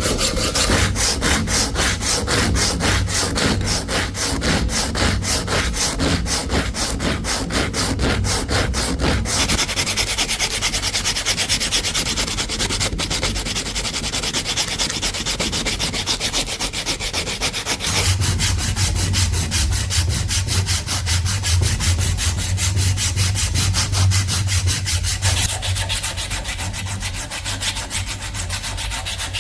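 Wood being sanded by hand in rapid back-and-forth strokes, about five a second. A steady low hum joins a little past halfway.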